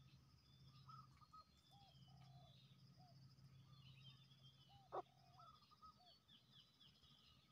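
Near silence with faint distant wild birds calling: scattered short chirps and some quick twittering, and one brief slightly louder note about five seconds in.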